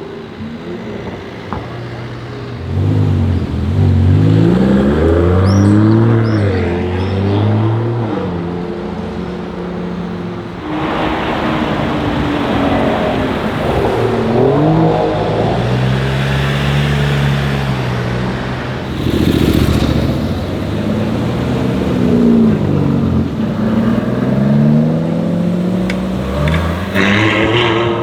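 Aston Martin DBS Superleggera's twin-turbo V12 accelerating away, the revs climbing and dropping several times as it pulls through the gears.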